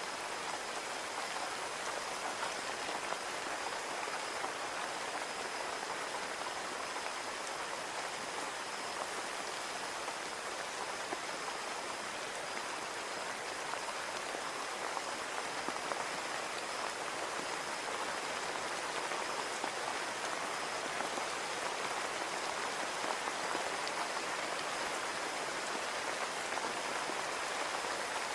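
Steady rain falling on a window: a dense, even hiss of many small drops that stays level throughout.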